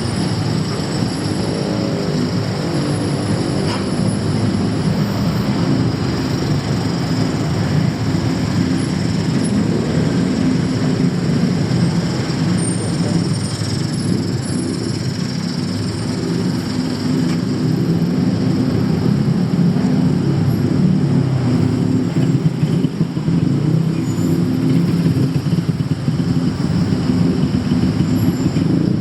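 Steady rumble of road traffic, engines running and tyres on the road, getting slightly louder in the second half.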